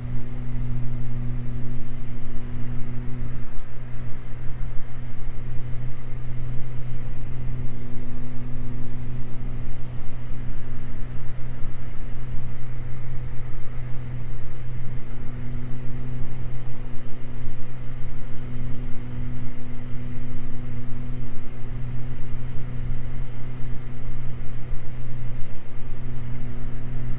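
Cockpit drone of a Beechcraft G58 Baron's two Continental six-cylinder piston engines and propellers in cruise-descent, a steady low hum. A higher tone in the hum slowly swells and fades every few seconds.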